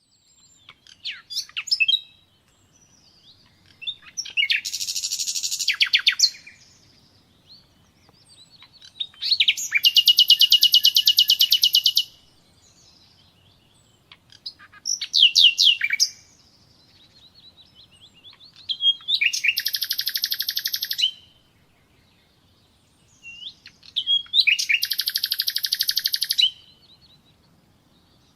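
Common nightingale singing: about six separate song phrases with short pauses between them, each a rapid run of fast repeated high notes.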